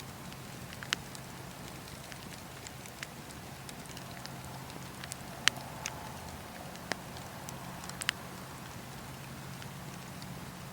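Campfire burning with a steady low rush and scattered sharp crackles and pops from the burning wood. The loudest pop comes about halfway through, with a few more near the end.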